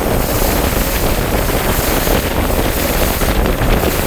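Heavy wind buffeting the microphone over rushing water aboard a bass boat, a steady loud rumble with no break.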